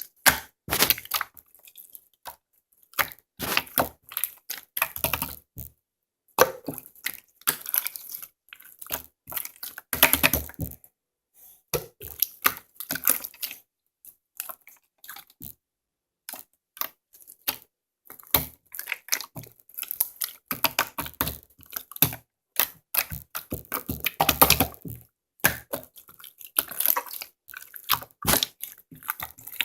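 Hands squeezing and poking slime, making irregular runs of sticky clicking and crackling with short pauses between.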